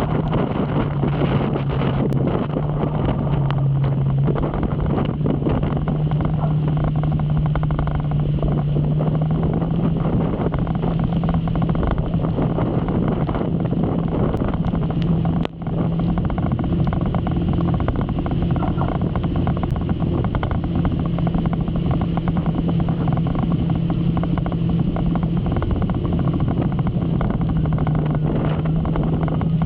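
Motorcycle engine running at a steady cruise, its pitch shifting a little up and down, under a heavy wash of wind and road noise on the microphone. The sound dips for a moment about halfway through.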